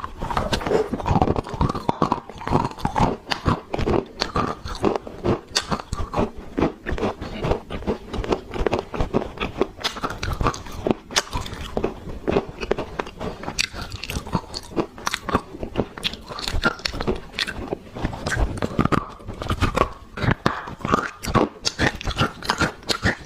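Black clay being bitten and chewed close to the microphone: a dense, irregular run of crunches and crackles that goes on throughout.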